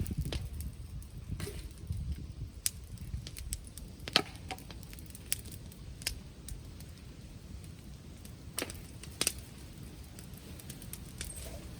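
Wood bonfire crackling: scattered sharp pops and snaps, the loudest about four seconds in and two more near nine seconds, over a low steady rumble.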